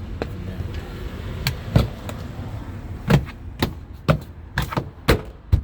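About eight sharp clicks and knocks at irregular intervals, from parts being handled and fitted back into a car door during reassembly, over a steady low hum.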